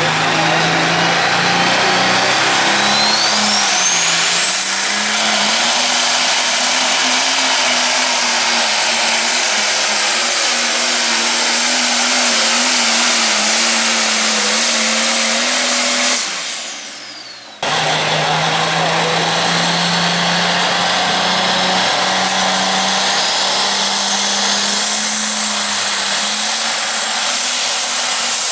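Light pro stock pulling tractor's turbocharged diesel engine running hard under load during a pull, with a high whine climbing in pitch a few seconds in. About sixteen seconds in the sound falls away. It then cuts abruptly to another tractor pulling at full power.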